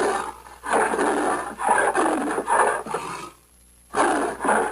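Leopard calling: a string of rough, rasping grunts about half a second apart, breaking off briefly a little after three seconds in and then starting again.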